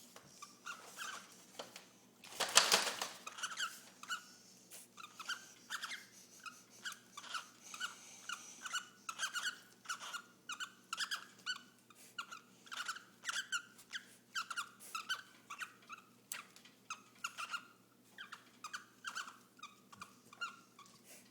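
Cockatiels mating: a steady run of short, high chirps, about two a second, with one louder, harsher burst about two and a half seconds in.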